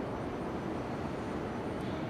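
E6 series Shinkansen trainset rolling slowly in on approach, a steady low rumble.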